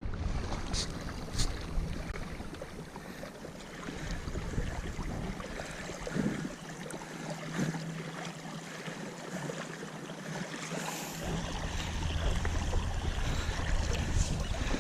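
Wind buffeting the microphone over ocean water around a kayak, with two sharp clicks about a second in. The low wind rumble drops away for a few seconds in the middle, then returns.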